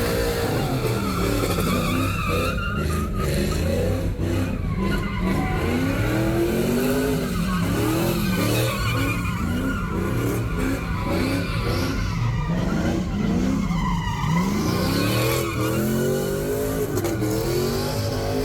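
A car engine revving hard, its pitch rising and falling over and over, while its tyres spin and squeal in a burnout.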